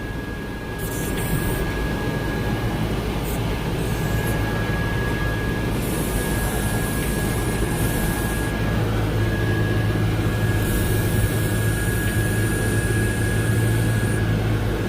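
Tractor engine running steadily while dragging a load on a chain, working a little harder from about nine seconds in. A thin high whine runs under it, with two stretches of hiss.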